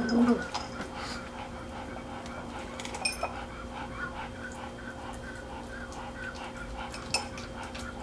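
Puppy panting in a steady rhythm, about three breaths a second, with a few sharp clicks along the way.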